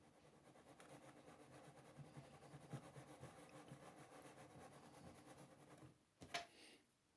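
Faint scraping and rattling of a microwaveable dish of cake batter being shaken, with one sharp click about six seconds in.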